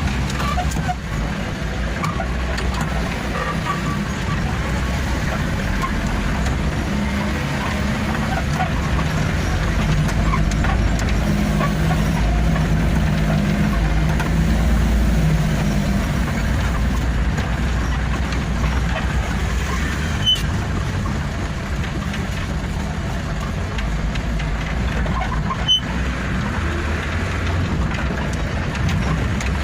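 Truck engine running steadily with a low rumble as the truck drives along, with two short sharp clicks in the second half.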